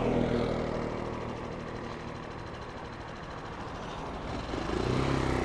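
Italika 250 motorcycle engine labouring up a climb under full throttle, its note sinking in the middle and then rising again near the end. The rider feels it hesitating under full throttle.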